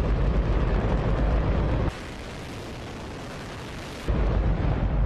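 A liquid hydrogen–oxygen rocket engine firing: a continuous, very loud rumbling roar. About two seconds in the sound drops and thins out, losing its low rumble, and about two seconds later the full roar returns.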